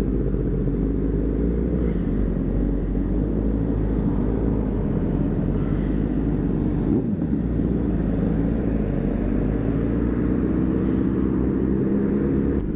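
A 2009 Honda CBR600RR's inline-four engine runs steadily under way, with a brief change in pitch about seven seconds in.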